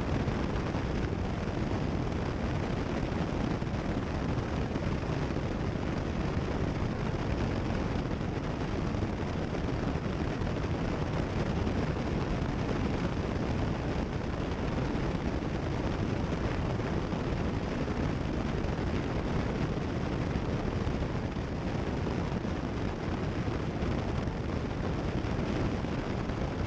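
Cessna 172 Skyhawk's piston engine, propeller and wind noise in flight, a steady drone heard through the headset intercom feed.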